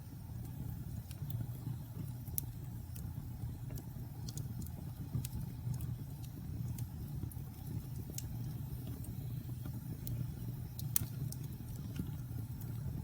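Logs burning in a fireplace, crackling with irregular sharp pops and snaps over a steady low rumble. The loudest pop comes about eleven seconds in.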